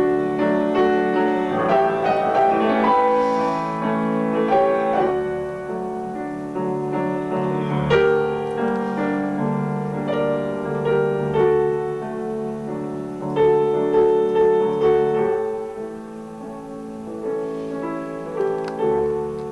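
Piano playing a piece solo, a melody over sustained chords with notes held and changing at a moderate pace.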